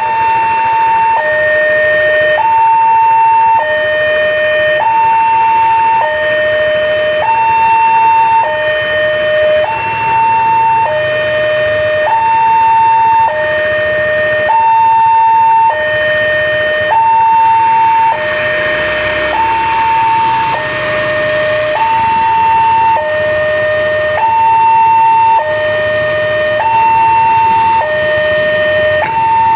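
Wanteck railway level-crossing warning alarm sounding a steady two-tone electronic signal, a higher and a lower note alternating about once a second, which warns that a train is coming. About two-thirds of the way through, a rushing noise joins it for a few seconds.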